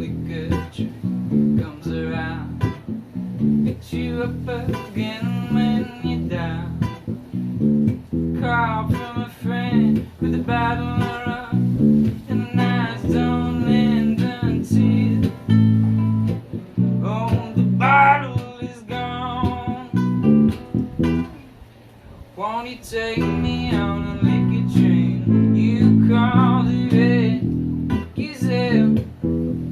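Acoustic guitar music, plucked and strummed, with a brief drop in level about 22 seconds in.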